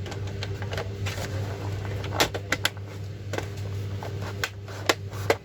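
Scattered light clicks and taps, about eight, mostly in the second half, as laptop parts are handled and fitted together, over a steady low electrical hum.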